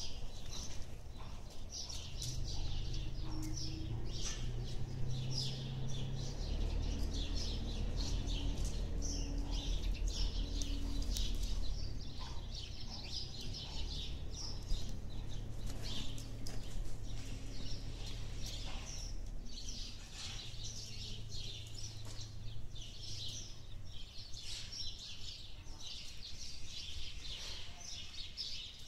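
Small birds chirping and twittering over and over, over a low steady rumble.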